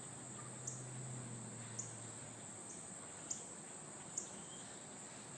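Northern cardinals giving short, sharp chip calls that drop in pitch, about one a second, over a steady high-pitched insect chorus. A faint low hum fades out in the first couple of seconds.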